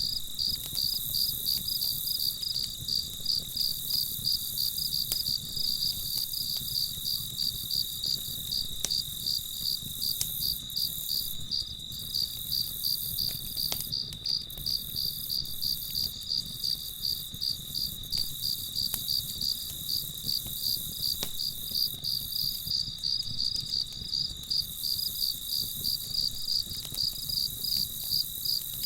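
Crickets chirping in an even, steady rhythm of about two to three chirps a second, over a low background hiss with a few faint clicks.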